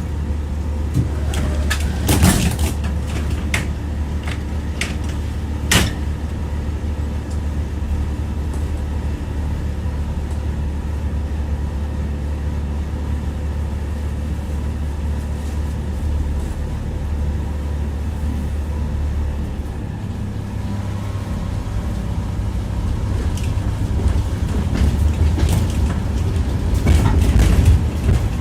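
Tram rolling along the track, heard from inside the car: a steady low rumble with sharp ringing knocks as the wheels pass rail joints. Two knocks come in the first few seconds, and a louder run of clacks builds near the end.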